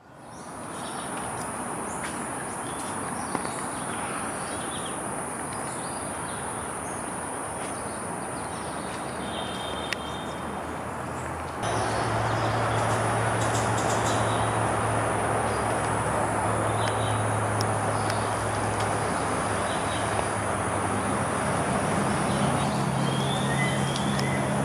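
Tropical forest ambience: a steady high-pitched insect drone with scattered short bird chirps over an even background rush. About halfway in the sound cuts to a louder stretch with a low steady hum beneath it.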